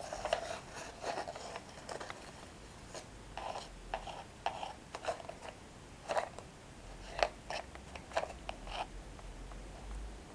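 Close-miked chewing of crunchy Bollycao Dip Dip toasted breadsticks: a run of short, irregular crisp crunches, dense at first, then spaced apart, thinning out near the end.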